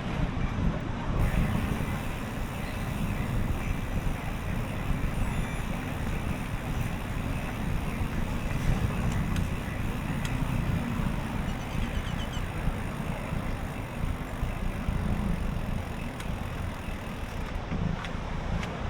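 Steady wind rumbling on the microphone of a moving bicycle camera, with the hiss of the ride beneath it.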